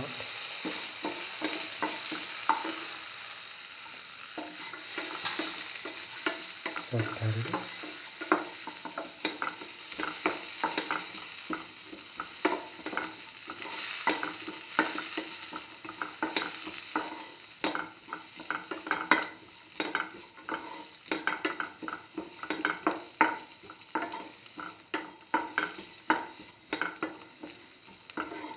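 Sliced garlic and shallots sizzling in hot oil in a metal pan while a spatula sautés them, scraping and tapping against the pan. The sizzle eases and the spatula strikes come thicker in the second half.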